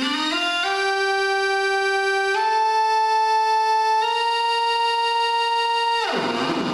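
Moog Theremini played through a small guitar amp: a single electronic tone slides up, steps up and holds a long note, then swoops sharply down near the end.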